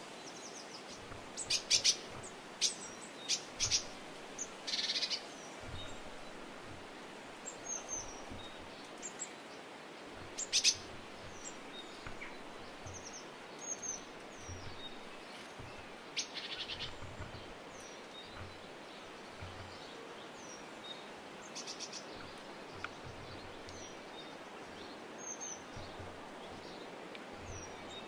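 Small songbirds calling: short high chirps and a few harsher buzzy calls, scattered irregularly over a steady background hiss.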